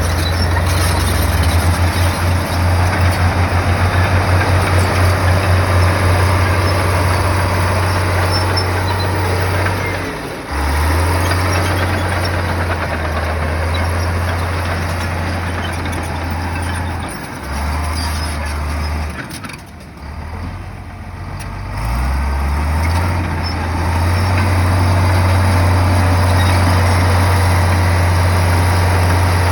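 Komatsu bulldozer's diesel engine working, its low drone dipping and changing pitch several times in the middle and then settling back to a steady note, with a broad noisy clatter over it.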